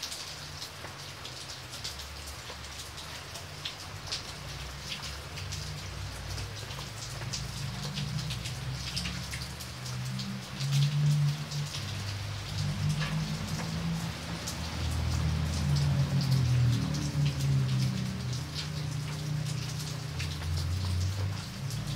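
Steady rain falling on wet paving stones, with many separate drop hits and splashes into standing water. Beneath it, a low rumble comes in about halfway through and grows louder.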